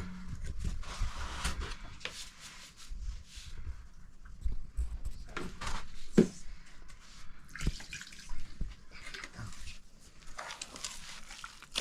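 Water splashing and pouring in irregular stretches, with a few short knocks.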